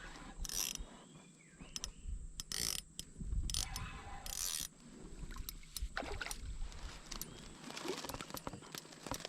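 Small spinning fishing reel being cranked, giving mechanical clicking and whirring in short irregular bursts, with scattered handling clicks.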